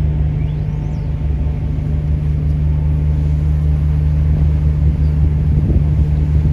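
Ferry's engine running with a steady low drone.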